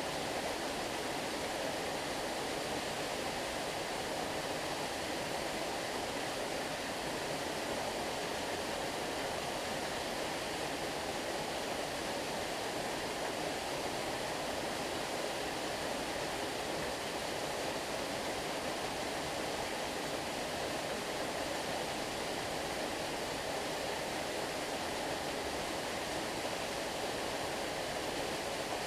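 Flowing stream: a steady, unbroken rush of moving water.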